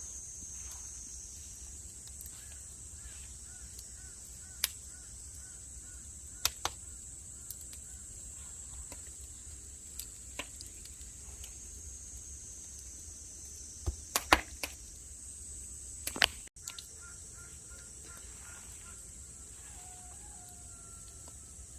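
Steady high-pitched drone of insects, with scattered sharp clicks and knocks, loudest as a quick cluster about two-thirds of the way through. Faint bird calls warble in the background.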